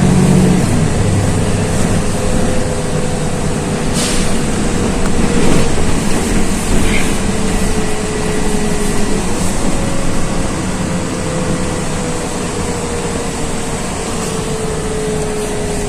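Inside a LiAZ 6213.22 articulated city bus under way: engine and drivetrain running over road noise, with a whine that slowly falls in pitch, jumps up about nine seconds in, then falls again. A few short knocks and rattles sound around four to six seconds in.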